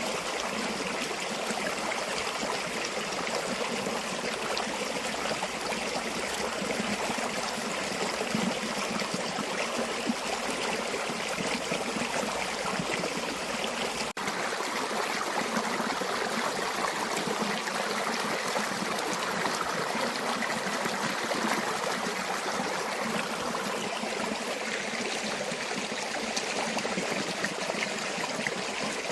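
River water flowing steadily, a continuous rushing and trickling stream, with a momentary break in the sound about halfway through.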